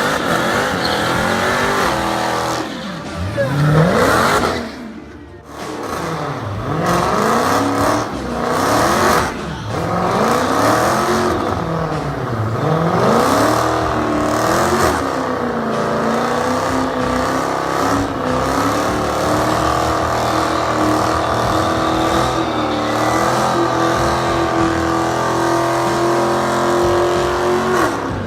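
Muscle car engine revved hard in a burnout, its pitch sweeping up and down again and again, then held at steady high revs through the second half.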